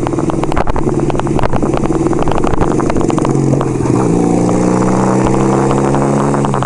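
1975 Kawasaki KZ400's parallel-twin engine running under way, with a rapid pulsing at first. Its pitch rises a little a few seconds in and then holds steady.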